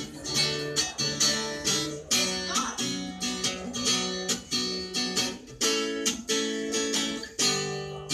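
Acoustic guitar strumming chords in a steady rhythm of about two strokes a second, with no singing over it.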